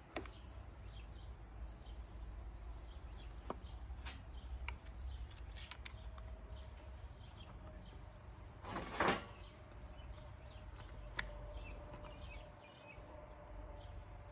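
Small clicks and knocks of plastic string-trimmer parts and tools being handled during reassembly, with one louder brief scraping noise about nine seconds in.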